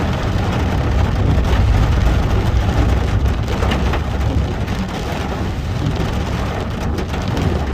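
Heavy rain on a moving car, over a steady low rumble of the engine and tyres on the road.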